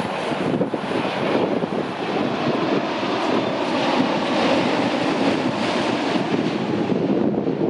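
Jet airliner on landing approach, its engines making a loud, steady rushing noise that eases just after the end.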